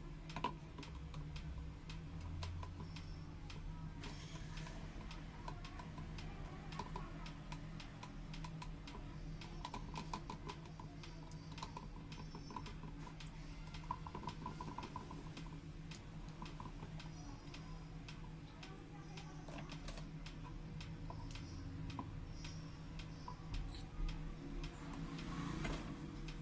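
Scattered light clicks and taps at an uneven pace over a steady low hum, with short faint beeps now and then.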